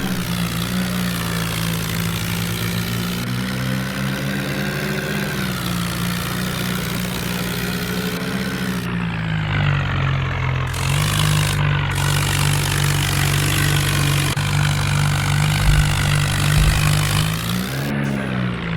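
Swaraj 855 tractor's three-cylinder diesel engine running steadily under throttle. Its pitch drops about nine seconds in and briefly rises again near the end.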